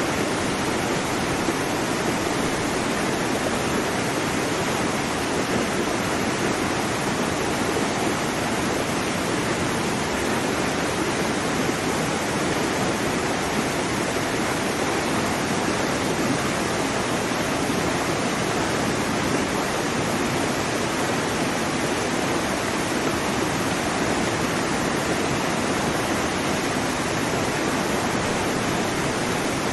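Waterfall: water falling and crashing in a steady, even rush of noise with no pauses.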